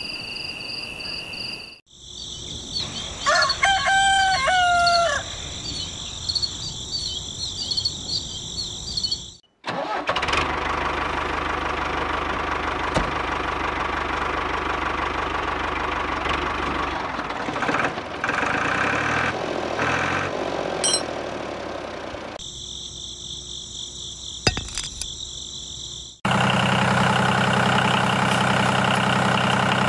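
Steady high insect drone with a rooster crowing once about three seconds in, then a long stretch of rattling mechanical running noise. Near the end a steady engine sound like an idling tractor diesel takes over.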